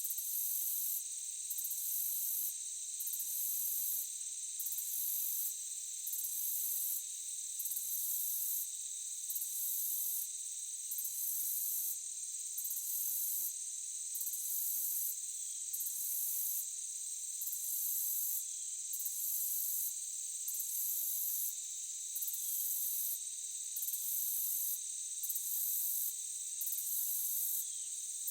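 Night insect chorus in a forest: a steady high-pitched trill with a still higher pulsing call that comes and goes about every second and a half.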